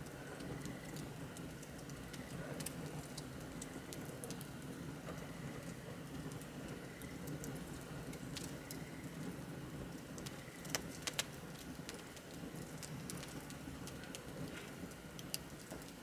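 Wood bonfire crackling: a steady low rush of burning with scattered small crackles, and a few sharper pops, two close together about eleven seconds in.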